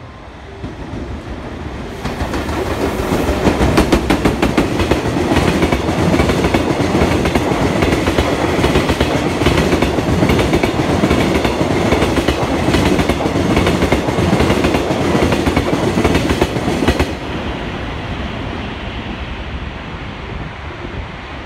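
Freight train of Taki tank wagons hauled by an EF210 electric locomotive passing at fairly high speed. A rising rumble as it approaches gets much louder about two seconds in. Then comes a rapid, continuous clickety-clack of the wagons' wheels striking the rail joints, which cuts off suddenly near the end as the last wagon clears, leaving a fading rumble.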